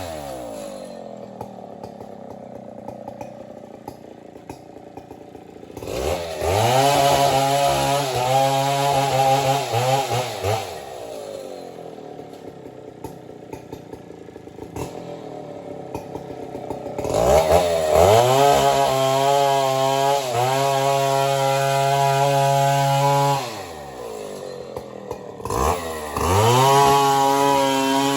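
Large two-stroke Stihl 070 chainsaw cutting breadfruit wood: the engine drops to a low idle, then revs up to full throttle three times, about 6 s in, 17 s in and 26 s in, holding a high steady pitch under load for several seconds each time. Between cuts it falls back to idle.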